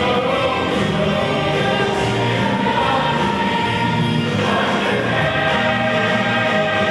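Choir singing with accompaniment, many voices holding chords that change every second or so.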